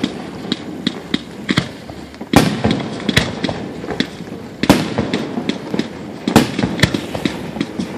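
Fireworks going off: rapid crackling and popping throughout, with three big booms spaced roughly two seconds apart.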